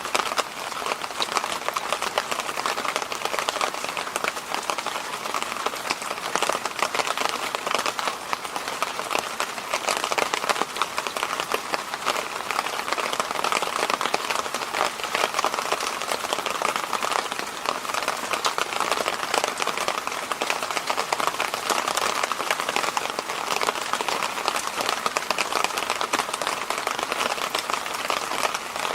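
Electric fan running steadily: a constant airy rush with a fine, dense crackle through it and no change in speed.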